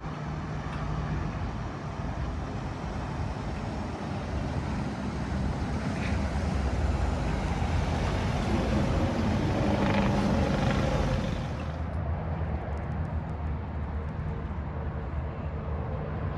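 A vehicle engine running steadily with a low hum under a broad hiss. It gets louder for a few seconds around the middle, and the high hiss cuts off suddenly about twelve seconds in.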